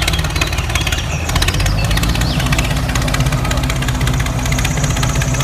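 An engine idling steadily, with a fast, even knocking rhythm.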